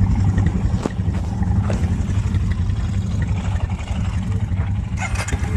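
Quad bike (ATV) engine running steadily with a low, even rumble, a few light clicks over it.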